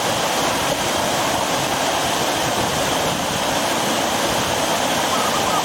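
Waterfall-fed river water rushing steadily over rocks.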